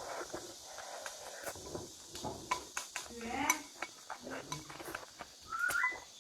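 Cutlery and dishes clinking during a meal, many sharp clicks, with a few short pitched vocal sounds about halfway through and near the end.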